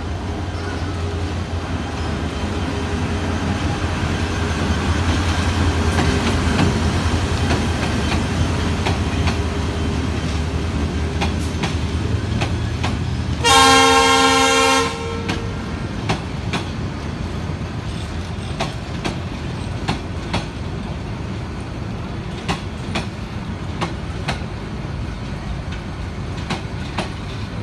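Bangladesh Railway diesel-hauled intercity passenger train passing close by: the locomotive's engine rumble builds over the first few seconds, its horn sounds once for about a second and a half halfway through, then the coaches roll by with steady clicking of wheels over rail joints.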